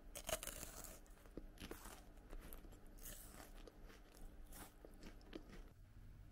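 Close-miked biting and chewing of a Lotte Pie no Mi, a bite-sized flaky puff-pastry apple pie: a run of irregular crisp crunches, the loudest near the start.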